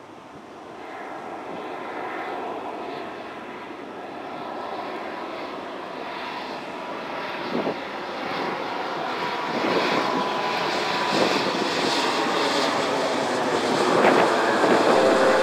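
Jet airliner engines growing steadily louder as the plane approaches overhead, a broad rushing noise with a faint steady whine in it.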